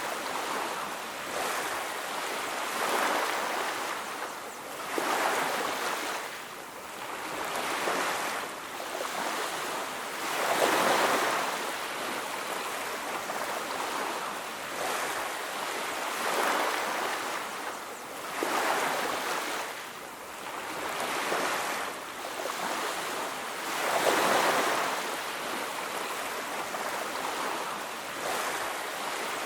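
Ocean waves breaking and washing on a beach, swelling and ebbing every few seconds, the loudest around ten and twenty-four seconds in.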